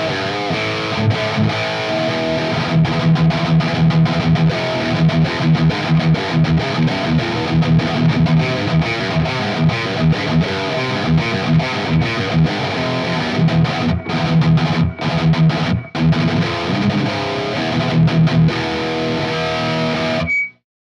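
Distorted electric guitar riffing through an EVH 5150 high-gain amp, boosted by an Earthquaker Devices Plumes overdrive in its Tube Screamer-style mode 3, close-miked on a Mesa V30 speaker. The playing stops about twenty seconds in with a brief squeal of feedback.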